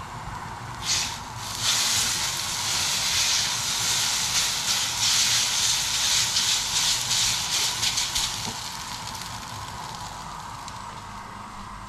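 Noodles stir-frying in a hot oiled pan on a gas hob, sizzling. The sizzle swells loudly about a second in as the noodles are tossed with two wooden spatulas, flickers, then dies back to a faint hiss after about eight seconds.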